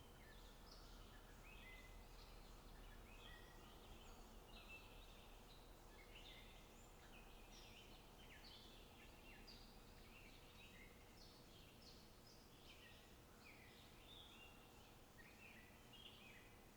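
Faint outdoor birdsong: many short chirps and quick trills from small birds, overlapping continuously over a low steady background rush.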